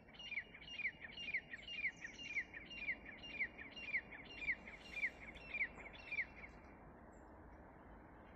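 A bird calling a rapid series of about a dozen short, downward-sliding notes, roughly two a second, that stops about six and a half seconds in, over faint steady background noise.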